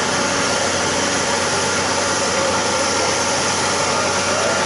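Diesel engine of a river-dredging excavator running steadily, a constant noisy drone with a low steady hum.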